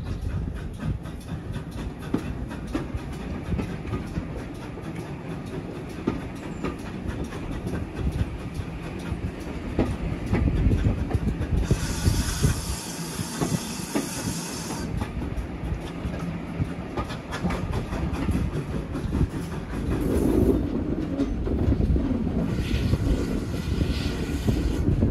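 A heritage railway train running on the line, a steady rumble with the wheels clattering over the rail joints. A hiss rises over it for about three seconds around the middle, and another comes in near the end.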